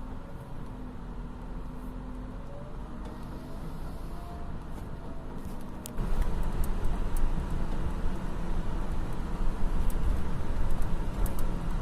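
Heavy earthmoving machinery's diesel engines running steadily, getting abruptly louder and rougher about six seconds in.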